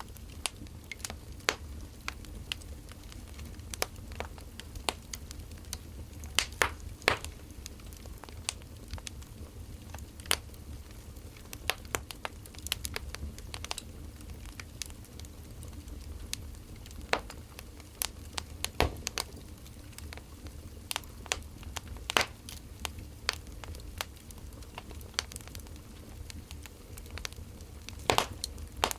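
Firewood burning, crackling with irregular sharp pops over a low steady rumble; a few louder pops stand out about a quarter of the way in and near the end.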